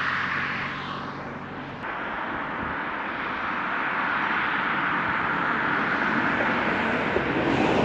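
Steady vehicle noise, a rushing sound that dips about two seconds in and then grows slowly louder.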